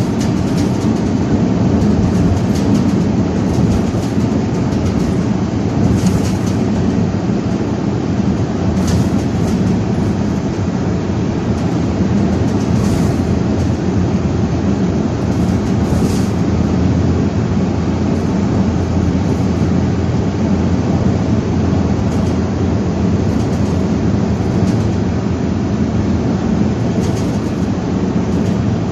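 Loud, steady rumble of a vehicle on the move in strong, gusting wind, with wind noise and rolling noise blended together.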